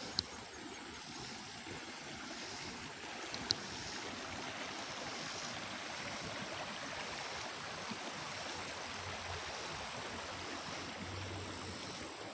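Small creek running steadily, an even rushing of flowing water. Two brief high clicks stand out, one right at the start and one about three and a half seconds in.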